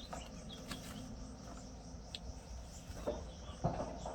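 Steady chorus of crickets trilling, with a few faint bird chirps early on and two short louder noises near the end.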